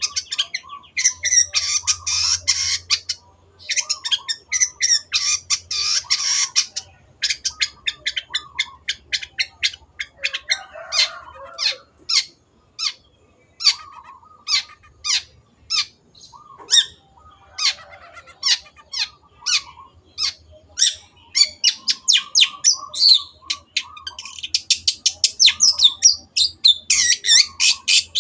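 Long-tailed shrike (cendet) singing: fast runs of harsh, scratchy chattering notes, then single sharp notes spaced about two a second, then fast runs again from about two-thirds of the way in.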